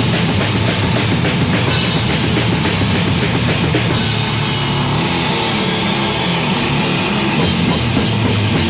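Heavy metal/hardcore demo recording: distorted guitars, bass and drum kit playing steadily, with no vocals.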